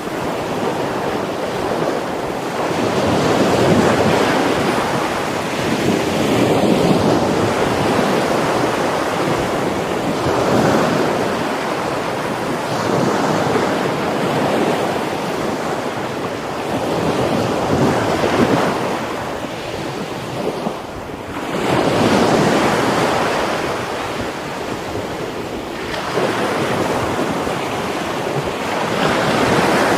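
Rough sea waves breaking on a beach, the surf swelling and falling every few seconds.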